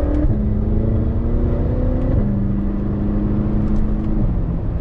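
BMW F10 M5's twin-turbo V8, fitted with an X-pipe exhaust, accelerating through the gears, heard from inside the cabin. The engine note climbs, drops at an upshift about a third of a second in, climbs again, drops at another upshift about two seconds in, and shifts once more near the end.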